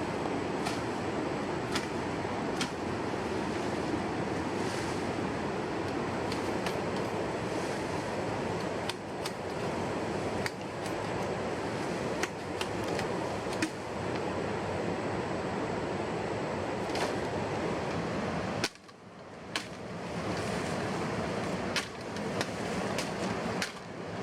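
Steady rushing outdoor noise, like wind or flowing water, with irregular sharp cracks and knocks, a dozen or more, scattered through it. About three-quarters of the way in the rushing drops away suddenly and climbs back over a few seconds.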